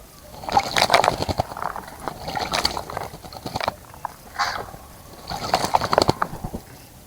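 A bird bathing in a bird bath, splashing the water with its wings in several short bouts.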